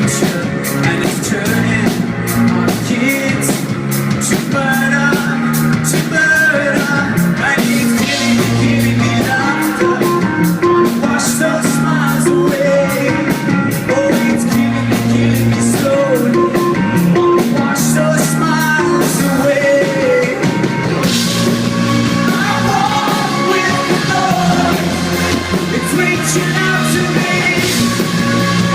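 Live band playing a loud electronic rock song, with a steady drum beat under synth and guitar lines and no sung words. The arrangement changes about twenty seconds in.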